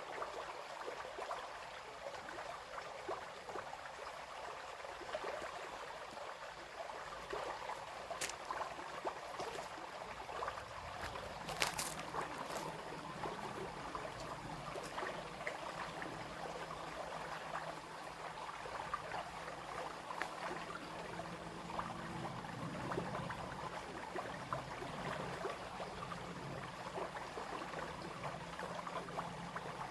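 Small brook flowing and trickling steadily. A few sharp clicks come about 8 and 12 seconds in, and a faint low hum joins in the last third.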